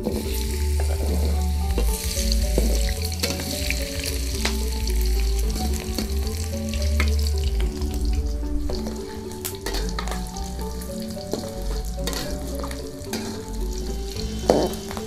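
Potato wedges sizzling as they fry in hot oil in a metal wok, the hiss growing a couple of seconds in, with a spatula clicking and scraping against the pan. Background music with a bass line plays underneath.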